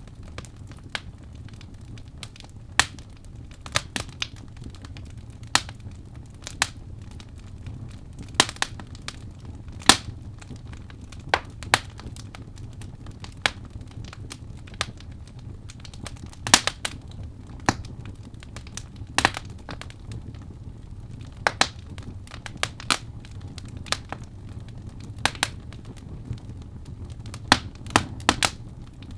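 Wood fire in a fireplace crackling, with irregular sharp pops, some in quick clusters, over a low steady rumble.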